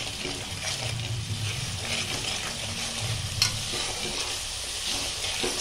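Spice paste sizzling in oil in a steel kadai while a spatula stirs and scrapes it through, with one sharp click about three and a half seconds in. The masala is being fried down until the oil separates.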